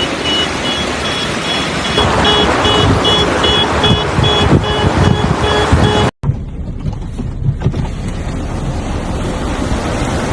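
Rushing floodwater and wind buffeting the microphone, a loud steady wash of noise. For the first six seconds a rapid electronic beeping repeats under it. The sound cuts abruptly about six seconds in, and a second stretch of rushing water follows.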